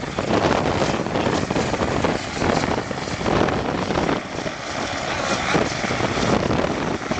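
Wind buffeting the microphone: a loud rushing noise that swells and dips unevenly.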